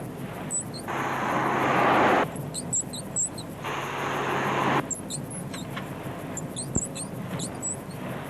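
Repeated short, high-pitched squeaks, the squeak being searched for. Two louder bursts of hissing noise with a low hum, each about a second long, come near the start and in the middle.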